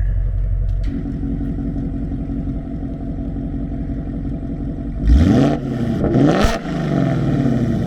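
Ford Mustang Coyote 5.0 V8 through Kooks long-tube headers, an H-pipe and a Corsa Xtreme valved exhaust in Sport mode, idling with a deep burble and then blipped twice, revving up and dropping back about five and six seconds in.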